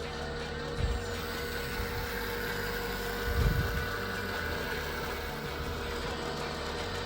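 Hydraulic pump of a 1:25 scale RC Liebherr R9800 excavator running steadily with a constant whine, with two short low thumps, about a second in and again about halfway through.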